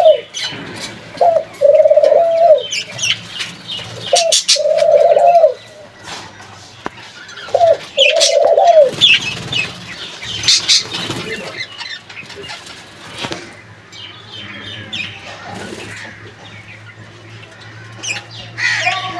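Birds calling: four loud, drawn-out low calls of about a second each, every one opened by a short note, over the first nine seconds. After them come scattered, fainter high chirps.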